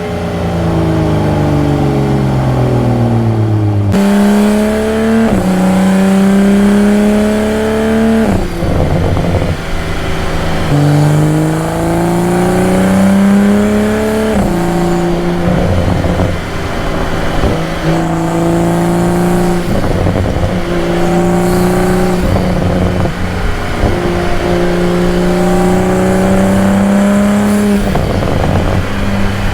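2022 Toyota Supra's engine and exhaust under way: the revs fall at first, jump up about four seconds in, then climb and drop several times with gear changes, with steadier cruising stretches in between.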